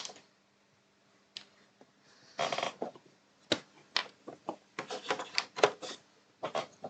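Sharp clicks, knocks and a short rattling scrape from PS5 hardware being handled and connected up ahead of a power-on test, over a faint steady hum.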